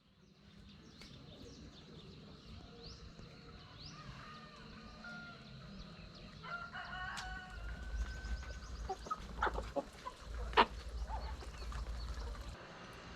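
A rooster crowing once, with a long held final note, among scattered smaller bird chirps. A few sharp knocks follow, the loudest near the end.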